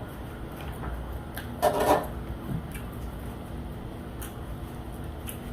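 Quiet eating and handling noises, a few soft clicks and rubs, over the steady low hum of a room heater, with a short hummed vocal sound about two seconds in.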